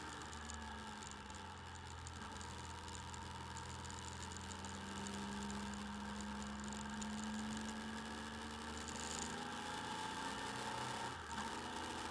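Motorcycle engine running under way, heard through the bike-mounted camera's mic together with a steady rush of wind and road noise. The engine note climbs slowly through the middle, then eases.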